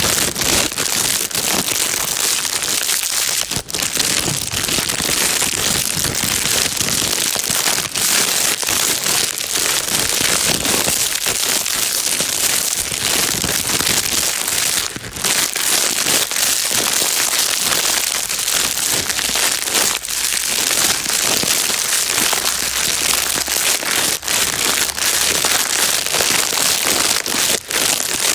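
Plastic bag rustling and crinkling continuously, an even crackly hiss with brief dips now and then.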